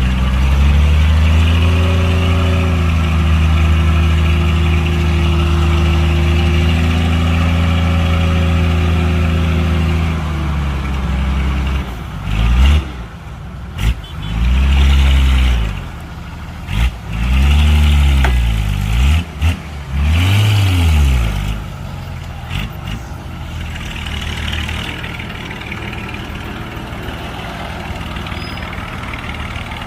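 Heavy diesel engine revving up and held under high revs for about ten seconds, then revved up and down in about five short bursts, and settling to a quieter steady running near the end.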